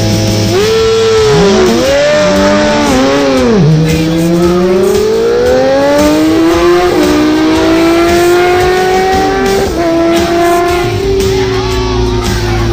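Racing motorcycle engine revved in quick blips, then pulling hard with a steadily rising pitch that drops twice, about seven and ten seconds in, as it shifts up through the gears.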